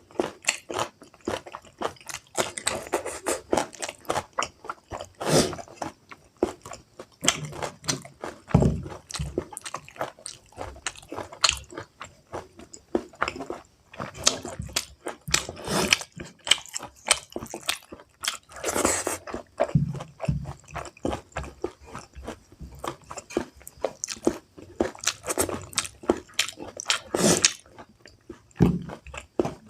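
A person chewing and biting into pork curry with rice, with irregular wet clicks and crunches of the mouth and food.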